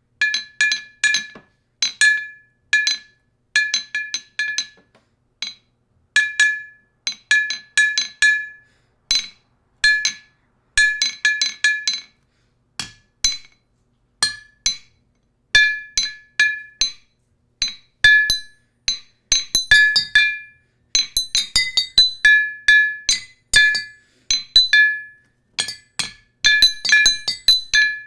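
Glass struck over and over by a hard utensil, clinking in quick irregular runs. Each strike rings briefly at the same pitch.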